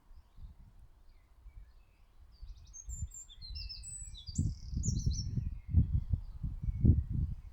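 Small garden birds chirping in a quick burst of high twittering notes about midway, over a run of irregular low thumps and rumbles in the second half, which are the loudest sound.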